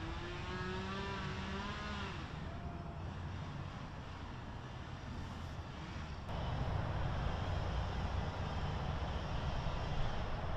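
Steady outdoor background rumble, like distant traffic. A short pitched sound lasts about the first two seconds, and the rumble turns suddenly louder about six seconds in.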